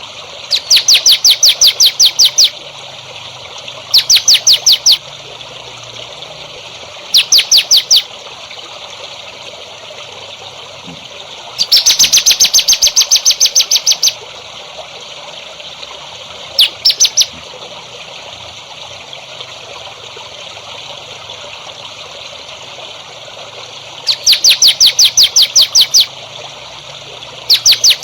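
A songbird repeating bursts of rapid, sharp trilled notes, about seven a second, each burst lasting one to two seconds, several times over, above steady trickling water.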